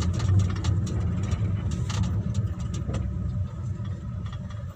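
Car engine and road noise heard inside the cabin as the car rolls in neutral, the engine settling toward idle and the sound gradually fading. A few light clicks can be heard over it.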